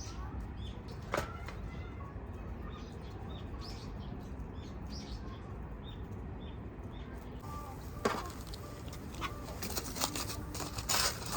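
Wood fire burning with small crackles over a steady low rumble, and sharp pops about a second in, about eight seconds in and several near the end.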